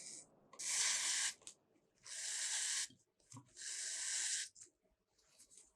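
Three short bursts of hissing noise, each just under a second long, about a second and a half apart.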